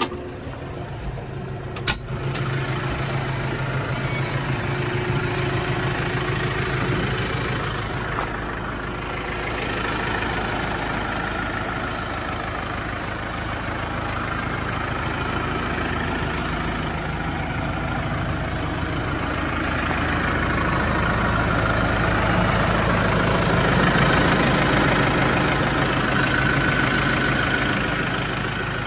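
A New Holland Powerstar 75 tractor's four-cylinder diesel engine idling steadily. A couple of sharp knocks come in the first two seconds, and the engine sound grows louder about two-thirds of the way through.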